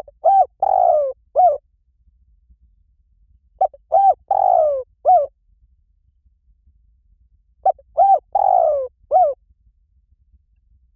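Spotted dove cooing: three identical phrases about four seconds apart, each of two short coos, a longer coo falling in pitch, then a short final coo.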